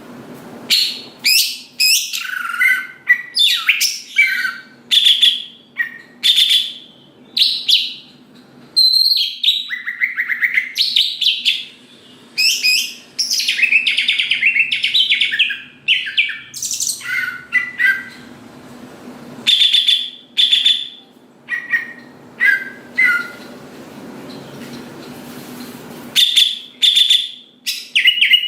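Cucak ijo (green leafbird) in vigorous full song: a fast run of short, varied whistled and chattering phrases, broken by brief pauses, over a faint steady hum.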